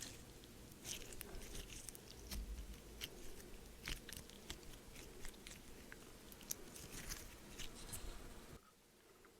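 Crunchy snack bitten and chewed close to the microphone: irregular crunches and clicks that stop abruptly near the end.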